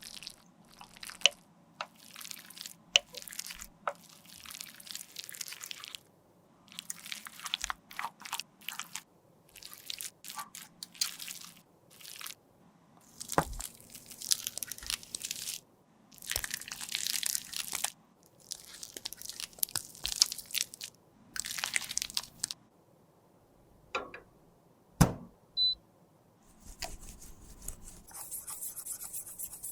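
Old makeup being crushed and scraped with a tool, close up: a series of short, crunchy scraping strokes in irregular bursts, with a few sharp taps.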